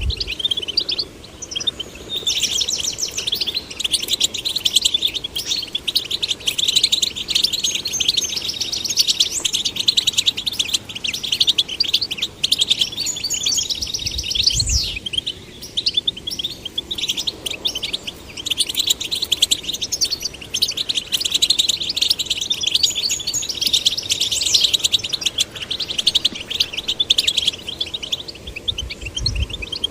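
European goldfinches singing: a fast, continuous twittering of high chirps, trills and quick slurred notes. Two brief low thuds are heard, one about halfway through and one near the end.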